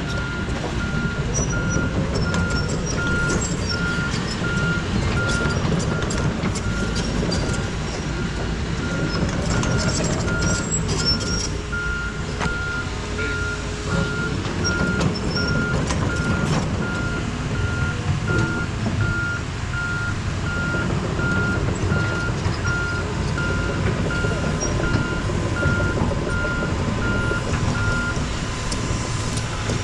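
Heavy equipment's backup alarm beeping at an even rate over the low rumble of diesel engines; the beeping stops near the end.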